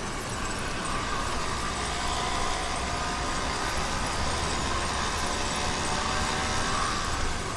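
YD100 two-stroke engine on a motorized bicycle running steadily under way.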